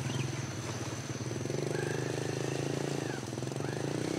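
A small engine running steadily with a fast, even pulse, its note growing a little stronger about a second and a half in.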